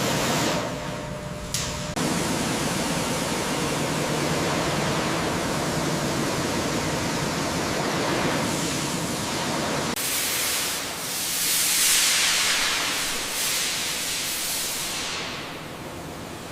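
Pressure washer spraying: a steady hiss and splash of water against a metal surface. The spray changes sharply about two seconds in, turns brighter and hissier about ten seconds in, and eases off near the end.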